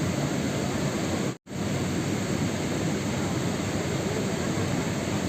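Steady rain noise, an even hiss and patter, broken about a second and a half in by a split-second drop to silence, like a cut or loop join in the recording.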